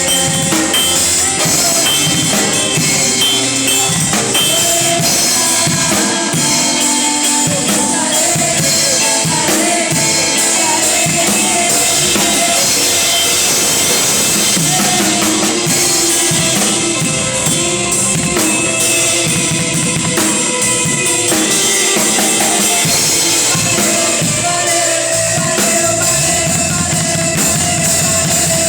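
Band music led by a drum kit, with bass drum and rimshots over sustained pitched instruments, loud and unbroken.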